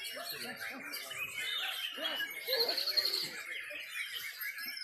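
Several white-rumped shamas singing at once: overlapping rich whistles and fast chattering phrases, with a high rapid trill about halfway through.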